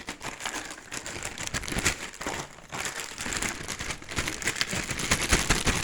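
A plastic parts bag crinkling and rustling as it is worked open by hand and the parts are pushed out of it.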